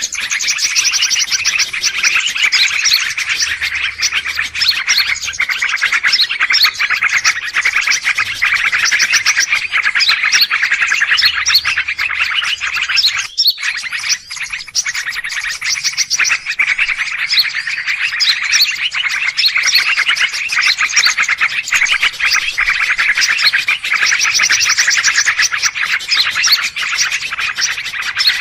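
Dense, continuous chatter of many small birds chirping rapidly at once, a noisy bird-luring recording, with a brief lull about halfway through.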